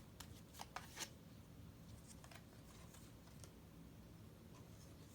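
Near silence: room tone with a low hum, and a few faint clicks in the first second.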